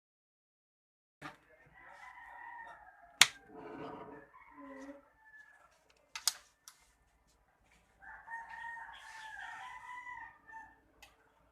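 A rooster crowing: a long, wavering call in the last few seconds, with shorter crowing or clucking earlier. Two sharp clicks or knocks stand out, the first a little after three seconds in, the second about three seconds later.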